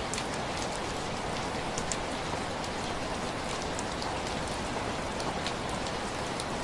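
Heavy rain falling steadily, with a few faint sharp pops scattered through it.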